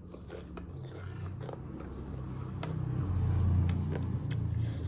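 Close-up eating sounds: crisp bites and chewing clicks from a mouthful of chatpate. Underneath, a low rumble swells to its loudest about three seconds in and then eases off.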